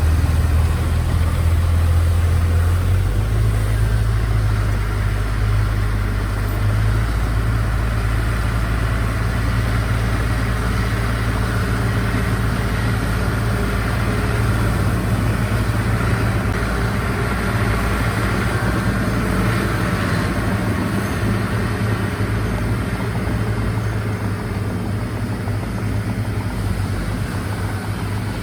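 Heavy earthmoving machine's diesel engine running steadily with a low, even hum, its pitch shifting slightly about three seconds in.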